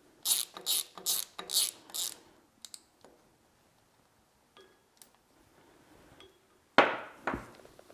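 Hand ratchet wrench clicking in five quick strokes, about two a second, while a fastener is worked loose. Then a few faint ticks, and near the end a louder clunk of metal.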